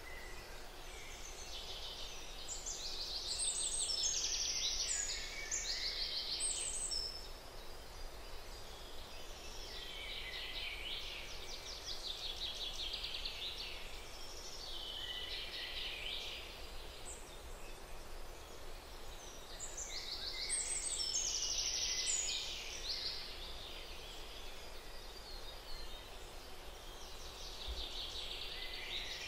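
Birds singing in repeated high, trilling phrases every few seconds over a steady background hiss, loudest about four seconds in and again past the middle.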